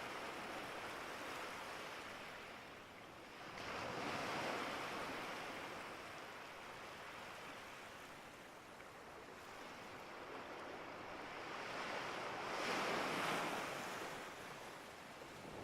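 Surf washing in and out: a rushing noise without any tone, swelling about four seconds in and again near the end.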